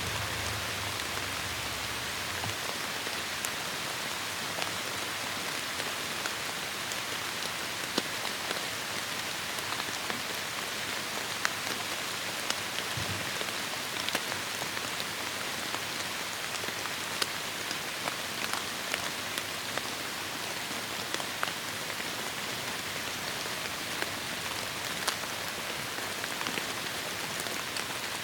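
Heavy rain falling steadily on forest foliage: an even, dense hiss with scattered sharp ticks of individual drops striking close by.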